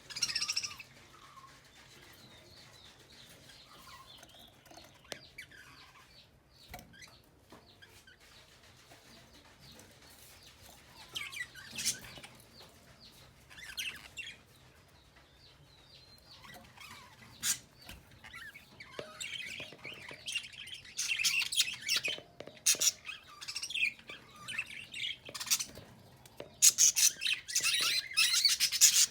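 Small birds chirping in short high bursts. The chirps are sparse at first, then come thicker and louder over the last ten seconds or so.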